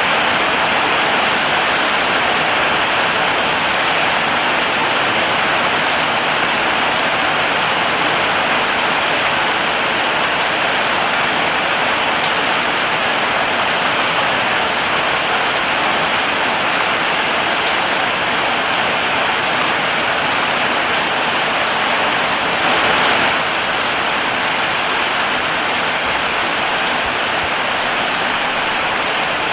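Heavy rain falling steadily, an even hiss with a brief swell about two-thirds of the way through.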